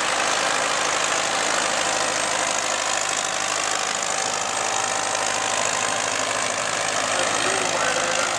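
Two vintage Fordson tractors, one fitted with a Perkins 4.270 four-cylinder diesel and the other with a Gardner 4LW four-cylinder diesel, running steadily under load as they pull a tractor-pull sledge together.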